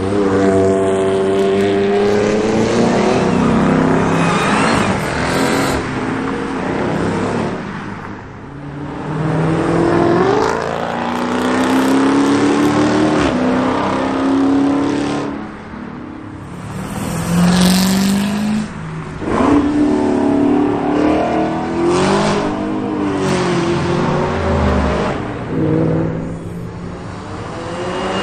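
Several cars accelerating away one after another, their engines revving up and dropping back between gears as each one passes.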